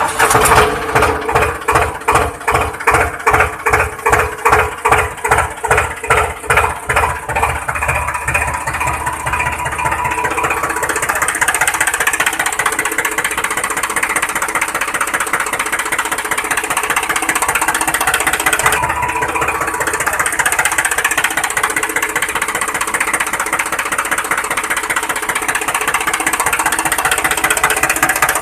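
Tractor engine chugging in slow, even beats of about two a second, which quicken and merge into a steady run after about ten seconds.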